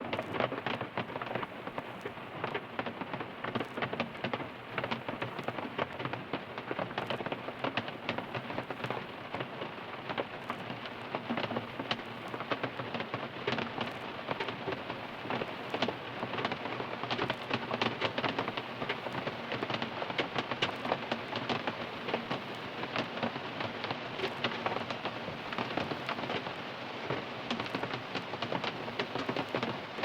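Steady rain falling on a car's roof and windows, heard from inside the car: a constant hiss with a dense patter of individual drops.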